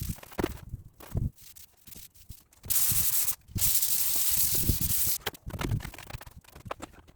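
Two bursts of steady spray hiss, the first about half a second long and the second about a second and a half, after a short gap. Scattered knocks and rubbing sounds come before and after the hiss.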